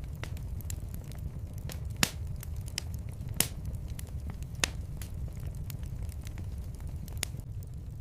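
Fireplace fire crackling over a low steady rumble of the flames, with scattered sharp pops, the loudest about two seconds in and again near three and a half seconds.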